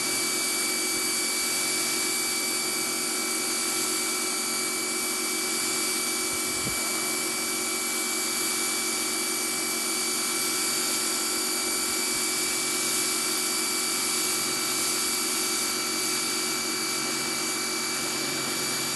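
Pressure washer spraying with its trigger held open through the white 40-degree nozzle: a steady whine from the machine over the continuous hiss of the water jet.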